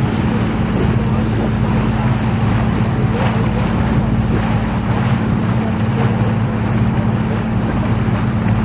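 Canal tour boat's motor running with a steady low hum, over a constant rush of water and wind.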